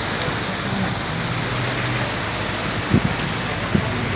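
Heavy rain with wind: a steady, dense hiss of rain falling on surfaces. Two brief low thumps come in the second half.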